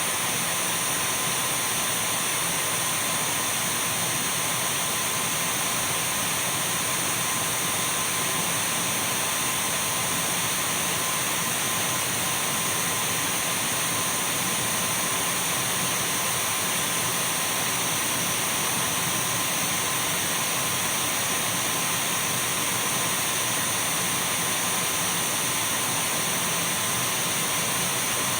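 Dyson V12 cordless stick vacuum running steadily: an even rush of air with a thin, high motor whine, no change in pitch or level.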